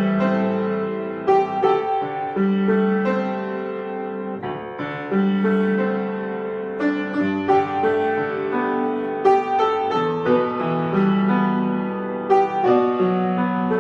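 Solo piano playing a slow, gentle piece: bass notes and chords struck and left to ring, with a new note or chord every second or so.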